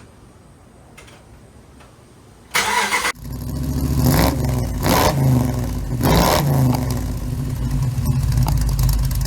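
2010 Ram 1500's 5.7 L Hemi V8 started by remote start: a half-second crank, then it catches and runs, its speed swelling and dropping about three times before settling toward idle. The truck is throwing a cylinder 5 misfire code (P0305).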